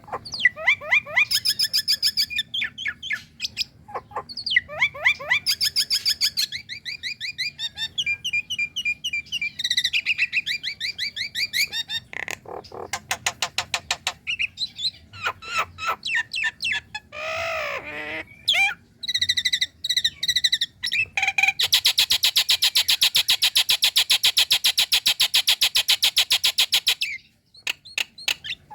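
Nias hill myna calling: loud varied whistles and chattering notes in quick series, with a deeper gurgling note around the middle. About three-quarters of the way through comes a long, rapid rattling trill lasting some five seconds.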